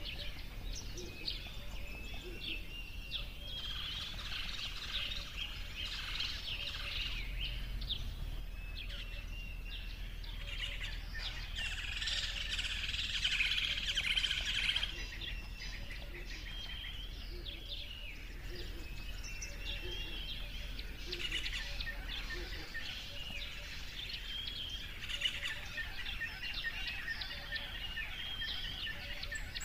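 Many small birds chirping and calling at once, their short calls overlapping, with a busier, louder spell of song a little under halfway through.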